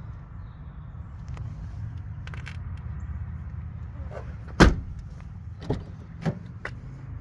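A car door on a 2001 Toyota 4Runner shut with one loud thump about halfway through, followed by two lighter knocks and a small click, over a steady low rumble.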